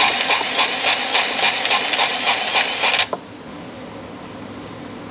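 Pneumatic wrench running down bolts on a combine drive shaft: a loud, rapid rattle with a hiss of air, pulsing about six times a second, that stops suddenly after about three seconds.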